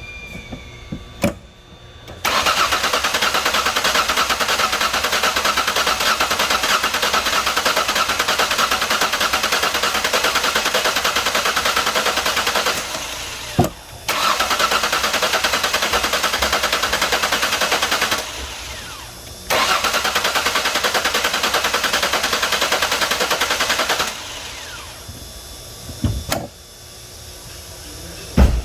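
Starter cranking a 2003 Mazda Tribute's 3.0L Duratec V6 in three long, steady bursts, the first about ten seconds long and the next two about four to five seconds each. The engine does not catch, and the mechanic takes it to be flooded.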